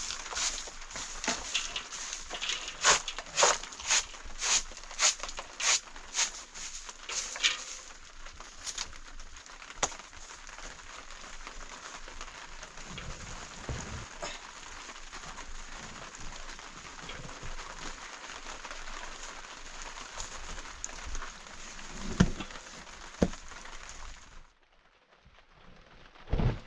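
Footsteps at a walking pace, about two steps a second, crunching for the first seven or so seconds over a steady hiss. The hiss runs on alone, then cuts off abruptly near the end, followed by a single knock.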